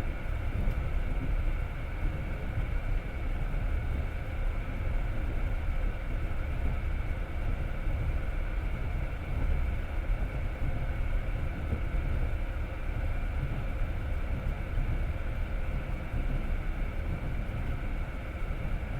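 Passenger train running at speed, heard from inside the carriage: a steady low rumble of the wheels and running gear on the rails, with a faint steady higher hum over it.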